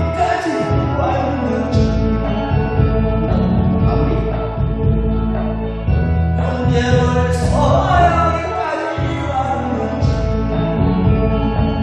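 A song with singing over an instrumental accompaniment with a steady bass line, sung for a group to sing along.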